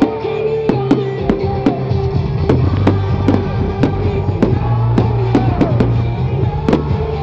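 Music with a steady bass line and sustained notes, broken by irregular firework bangs and crackles, several a second.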